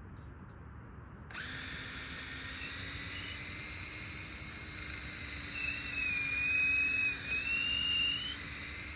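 Electric drill boring into the end of a gate for a threaded-rod hinge, starting abruptly about a second in and running steadily; its whine gets louder and wavers in pitch near the end as it works under load.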